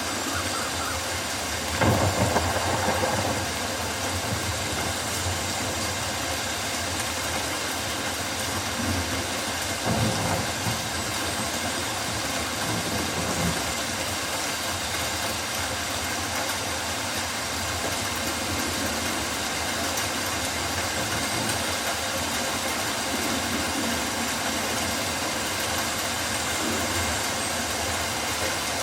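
Steady rainfall in a rainforest, an even hiss of rain on leaves, with a couple of low thumps near the start and about ten seconds in.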